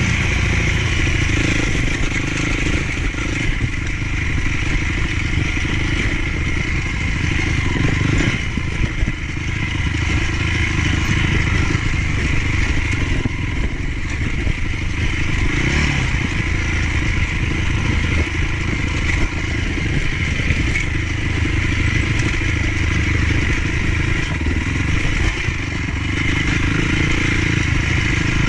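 Motocross bike engine running loud and continuous, with clattery, scraping noise mixed in.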